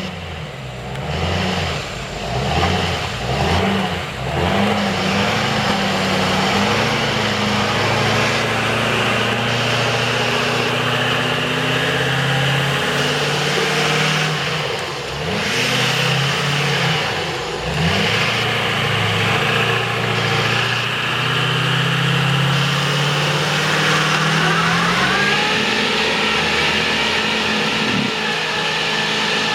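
Diesel engine of a Chevy mega mud truck revving hard under load, its pitch rising and falling again and again, with a couple of brief drops near the middle.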